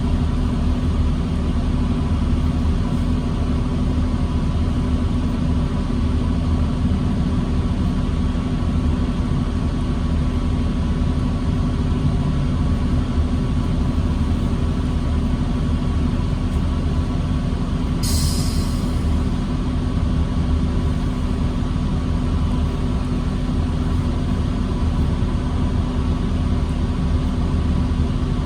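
New Flyer D40LFR diesel city bus engine running steadily at a low rumble with a constant hum, heard from inside the bus. A short high hiss cuts in once, about two-thirds of the way through.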